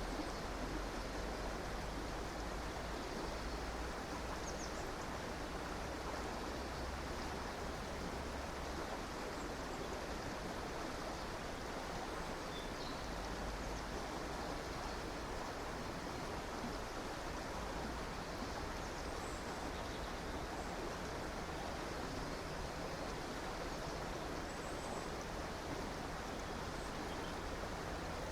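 A river or stream running steadily over rocks, with a few faint, high bird chirps now and then.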